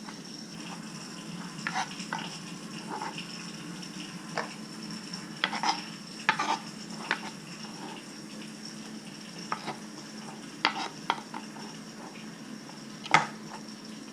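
Dishes and utensils clinking, tapping and scraping as food is dished into a bowl: a loose string of light clinks with one sharper knock near the end. A steady hum runs underneath.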